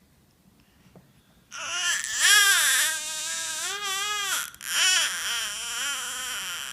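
A young child making a long, loud, high "ahhh" sound, starting about a second and a half in. It wavers up and down in pitch, breaks off briefly near the middle, then goes on.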